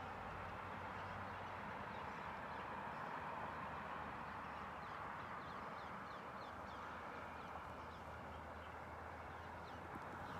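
Steady outdoor background noise with birds chirping, a quick series of short, falling chirps from about three seconds in until near the end.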